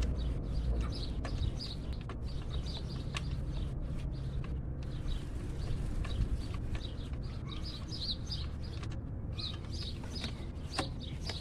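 Small birds chirping over and over, with a low steady rumble underneath and a few sharp clicks.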